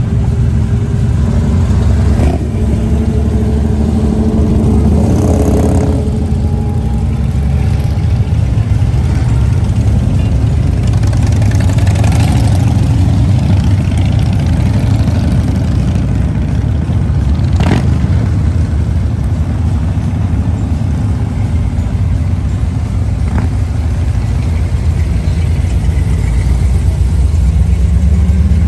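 Car engines running and revving with a continuous low rumble, as cars drive past on a cruise. There is a single sharp click about two-thirds of the way through.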